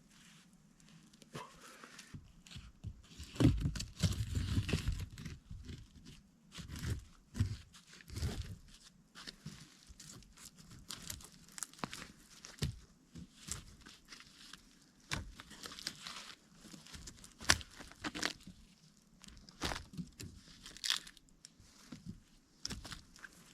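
Irregular snapping, cracking and crunching of branches and brush being handled, with a dense run of crunching about three to five seconds in.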